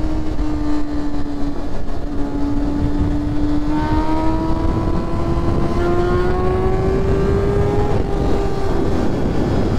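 Honda CBR600F's inline-four engine running at high revs under steady throttle, its pitch climbing slowly and easing off a little near the end, with wind rushing over the microphone.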